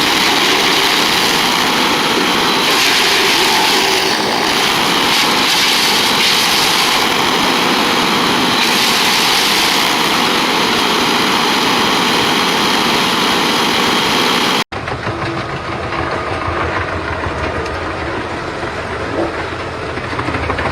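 Wood chipper running and chipping, a loud steady dense noise. About two-thirds of the way through it cuts off suddenly and gives way to another wood chipper's engine running with a deeper tone.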